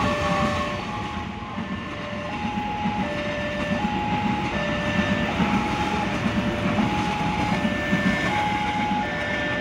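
A train passing a level crossing close by, its wheels and carriages rumbling and clattering on the rails. Over it the crossing's warning alarm sounds two alternating tones, switching about every three-quarters of a second.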